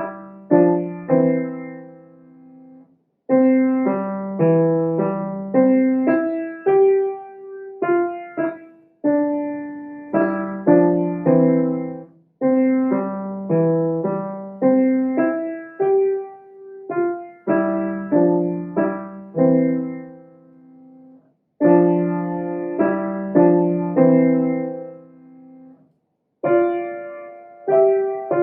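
Solo piano playing a slow piece of chords under a simple melody, each note struck and decaying, in short phrases with brief breaks between them about 3, 21 and 26 seconds in.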